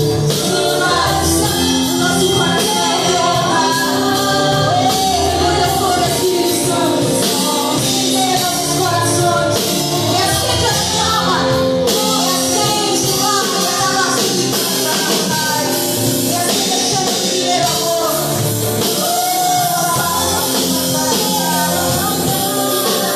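Live band music with singing: a voice carrying a melody over drum kit, bass and other instruments.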